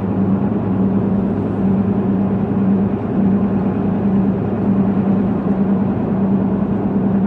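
A truck driving at road speed, heard inside the cab: a steady engine hum with tyre and road noise.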